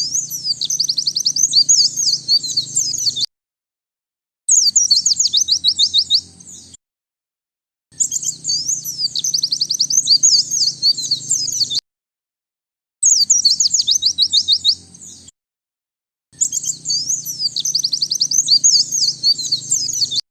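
White-eye (pleci) singing in bursts of rapid, high twittering with fast trilled runs. It gives five bouts of a few seconds each, separated by clean gaps of about a second.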